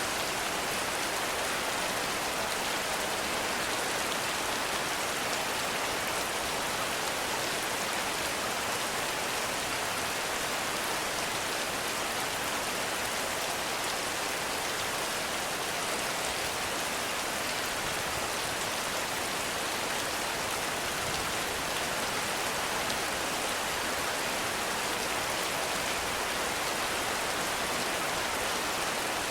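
Heavy rain falling steadily on forest foliage and ground, an even hiss with no single drops, thunder or changes standing out.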